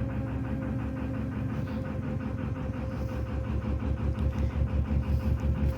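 Lister SR2 two-cylinder air-cooled diesel engine of a narrowboat running at cruising speed, a steady low beat of even firing pulses with a thin steady whine above it; the beat grows a little louder about halfway through.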